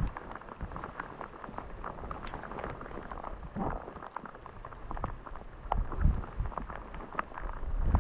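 Rain pattering: many separate drop ticks over a steady hiss, with a few low rumbles.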